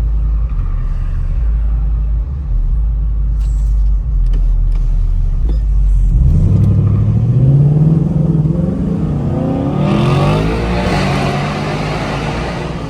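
Ford Mustang S650 engine and exhaust running low and steady, then accelerating hard in a full-throttle pull from about halfway through, the engine note climbing in pitch and loudest near the end before easing off. The car is still without its planned headers.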